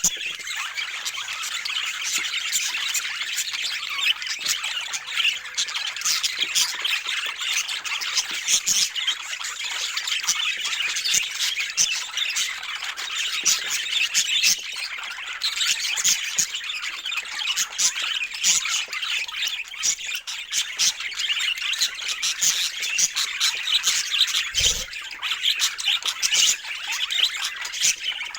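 Flock of budgerigars chattering continuously, a dense mix of overlapping chirps, warbles and squawks.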